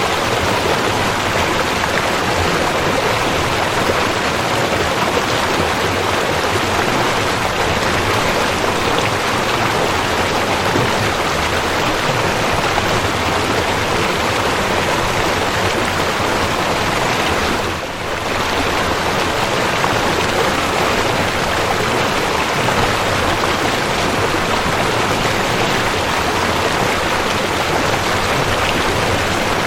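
Waterfall pouring steadily, a dense, even rush of water that dips briefly about eighteen seconds in.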